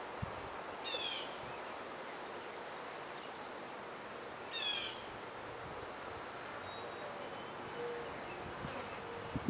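A bird calls twice, a short falling note each time, about a second in and again about four and a half seconds in, over a steady background hiss.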